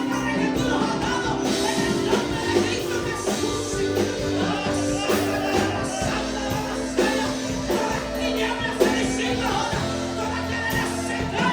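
Pentecostal worship chorus: singing over a full band accompaniment.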